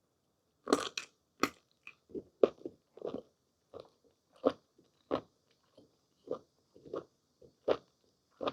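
Close-miked eating of blanched whole squid: a first bite about three quarters of a second in, then a steady run of moist, chewy chewing, about one to two chews a second.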